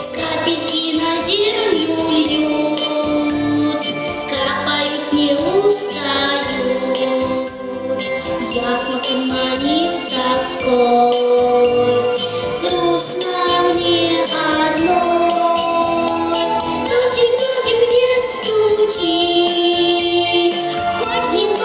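A song: a sung melody with long held notes over backing music with a steady beat.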